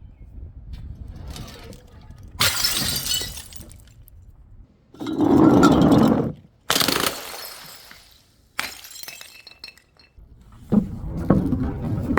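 Glass bottles smashing one after another: about five sudden crashes, each followed by a second or so of shattering and tinkling shards. The loudest and deepest crash comes about halfway through.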